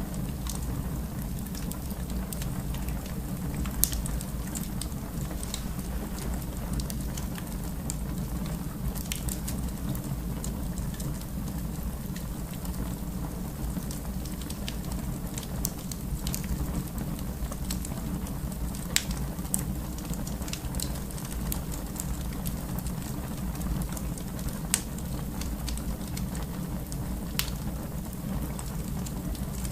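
Wood fire in a fireplace burning with a steady low rumble and scattered crackles and pops, a few of them sharper snaps.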